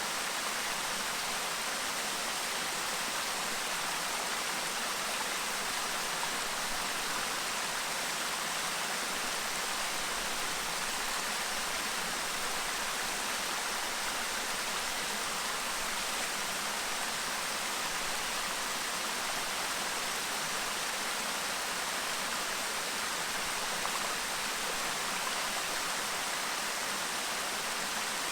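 A clear mountain stream babbling and rushing steadily over rocks.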